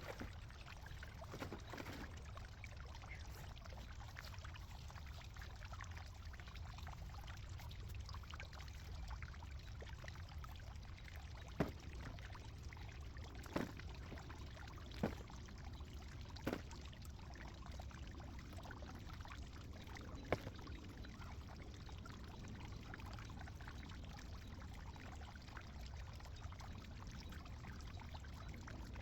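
Faint, steady rustle of loose garden soil being dug through and falling, with a handful of sharp knocks in the middle stretch.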